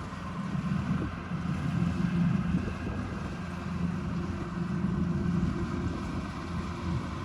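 Kubota DC-105X rice combine harvester running steadily under load, its diesel engine giving a low, even drone over the whir of the machinery.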